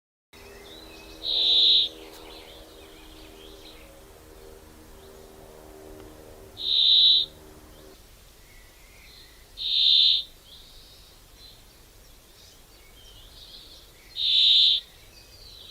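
A bird repeating a loud, short call four times, several seconds apart, over fainter chirps from other birds. A steady low hum runs under the first half and stops about halfway through.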